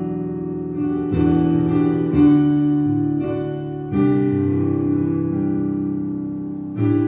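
Instrumental keyboard music, slow sustained chords on a piano or electric piano, each struck afresh and left to fade, with new chords about a second, two seconds and four seconds in and again near the end.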